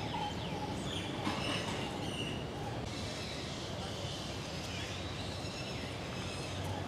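Several birds chirping and whistling in short calls over a steady low rumble of outdoor background.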